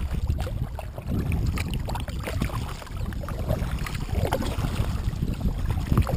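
A kayak being paddled on a river: irregular splashes and drips of water from the paddle and hull, under a steady rumble of wind on the microphone.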